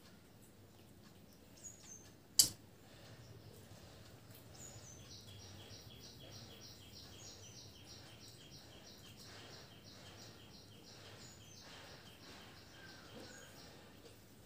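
Birds chirping in the background, with short high falling calls now and then and a fast, even run of chirps lasting several seconds in the middle. A single sharp click comes about two and a half seconds in.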